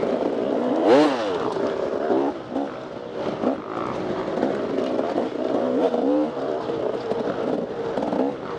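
Dirt bike engine being ridden hard off-road, its revs rising and falling continuously, with a sharp rev-up about a second in.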